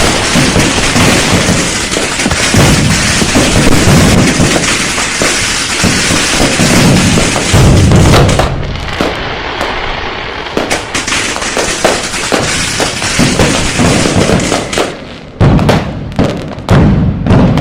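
Firecrackers and fireworks going off: a dense barrage of overlapping bangs for the first eight seconds or so, then thinning to separate sharp blasts, with a short lull about fifteen seconds in before more loud bangs.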